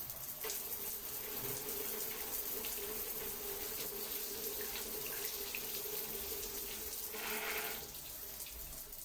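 Water running steadily in a thin stream with a steady ringing tone, starting about half a second in and stopping shortly before the end.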